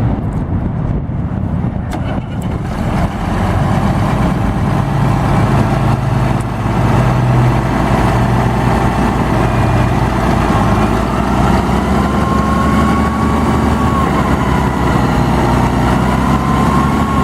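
Case 5130 tractor's diesel engine running steadily, growing louder about three seconds in. A faint whine rising and falling slightly joins it about eleven seconds in.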